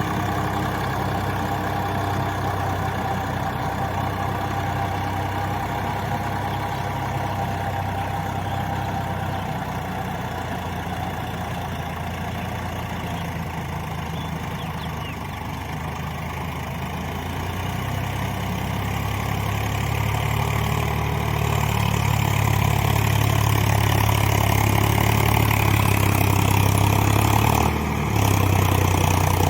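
Swaraj 744 FE tractor's three-cylinder diesel engine running steadily under load in mud, its level easing off around the middle and then building louder over the last third, with a brief dip near the end.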